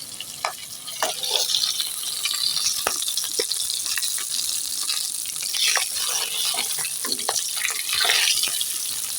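Fish frying in hot oil in a kadai, a steady sizzle. Scattered clinks and scrapes of a spatula against the pan as the fried pieces are lifted out.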